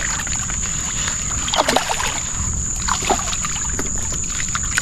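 Water sloshing and lapping around a paddleboard with a steady low wind rumble, a steady thin high whine, and two short falling squeaks about a second and a half and three seconds in.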